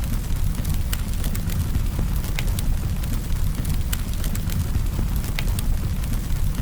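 Campfire burning with a steady low rumble and scattered sharp crackles and pops of burning wood, several a second.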